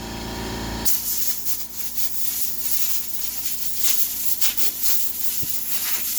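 Compressed-air blow gun blasting air through wet foam RC air filters to dry them, a loud rushing hiss that flutters as the air stream moves over the foam. It brightens and sharpens about a second in.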